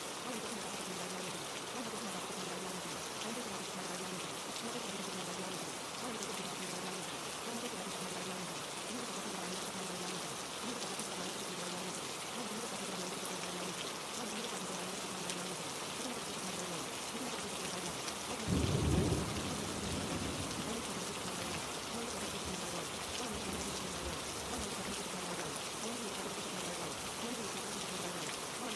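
Steady rain falling, with a single short burst of thunder about two-thirds of the way through that is the loudest moment.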